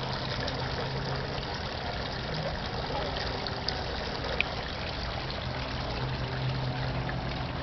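Steady trickling of running water over a low, steady hum.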